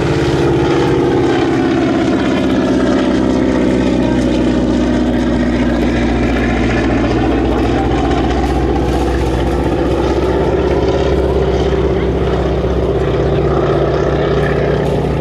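Boeing Stearman biplane's radial engine and propeller running loud and steady, the pitch sagging midway and climbing again as the aircraft manoeuvres.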